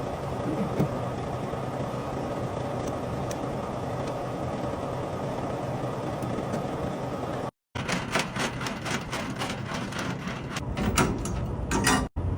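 Semi-truck engine idling steadily. After a cut, a rapid run of sharp clicks, several a second, sounds over it.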